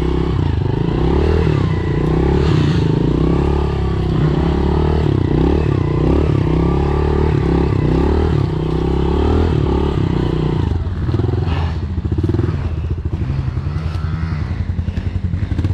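Honda CRF dirt bike's single-cylinder four-stroke engine running as it is ridden, revving up and down with the throttle. After about eleven seconds it drops to a lower, pulsing run.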